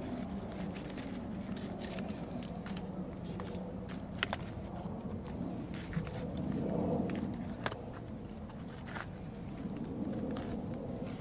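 Wood campfire crackling, with a steady low rush and scattered sharp pops, the loudest a few seconds in.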